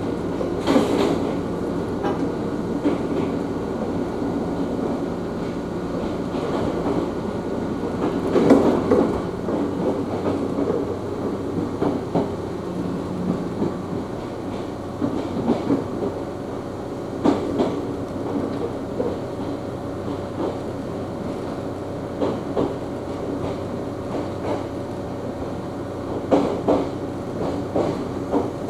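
Ohmi Railway electric train running along the line, heard from inside the car: a steady rumble with a low hum, and wheels clacking over the rail joints now and then.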